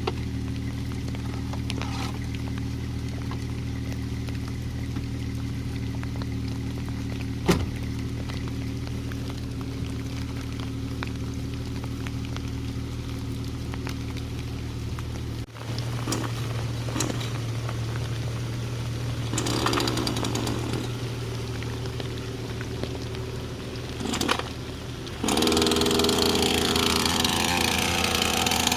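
Jeep TJ engine idling steadily, with one sharp knock about seven and a half seconds in. Near the end a chainsaw starts up and runs, louder than the idling Jeep.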